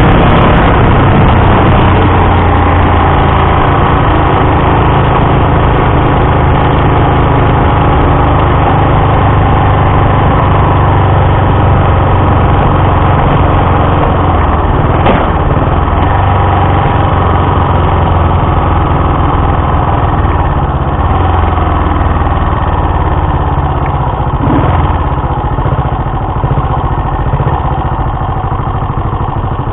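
Honda Dream CL250's air-cooled parallel-twin engine running steadily under way on the road, with a low, even drone. It gets gradually quieter over the last few seconds as the bike eases off.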